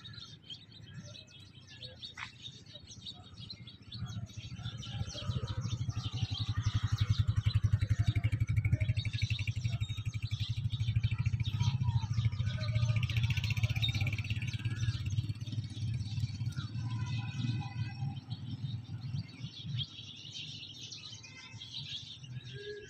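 Small birds chirping and twittering throughout. A low rumble rises about four seconds in, is loudest in the middle and fades near the end; it is the loudest sound.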